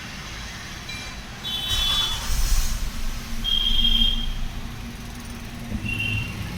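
Maruti Swift's four-cylinder petrol engine starting about a second and a half in and then running, with two ignition coils unplugged so that it runs on only two cylinders. Three short high beeps sound over it.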